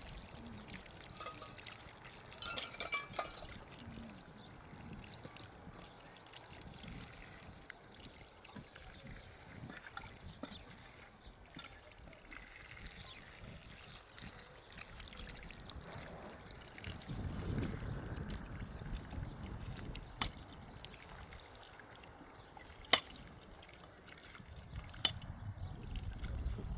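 Water running and trickling, with a few sharp clicks and a low rumble that swells about seventeen seconds in.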